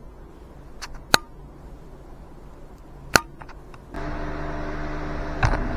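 Two sharp clicks, then about four seconds in a machine starts up and runs with a steady hum.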